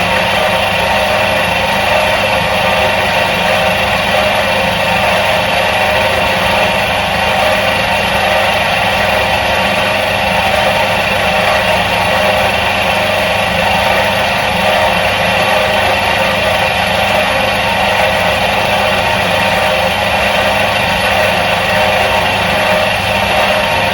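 Electric motor of a 1977 Soviet washing machine running steadily, an even mechanical hum that holds the same pitch and level throughout.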